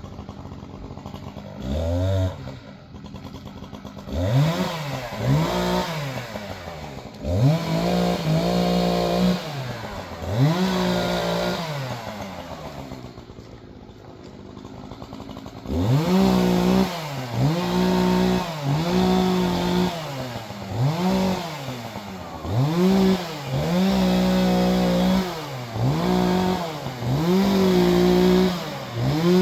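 Two-stroke chainsaw cutting wood: the engine is revved up to full speed, held there, then let fall back to idle, about fifteen times, with a quieter lull of a few seconds near the middle.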